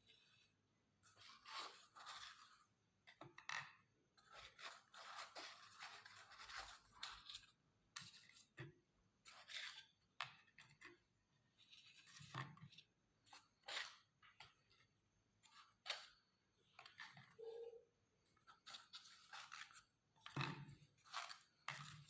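Faint, irregular crunching and scraping as a meat grinder breaks up a colourful cone, in short uneven bursts with no steady motor hum.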